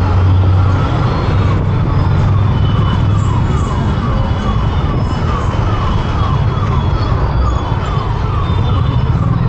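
Motorcycle riding through road traffic: a steady low rumble of engine and wind. Over it a siren sounds, a falling electronic tone repeating about twice a second.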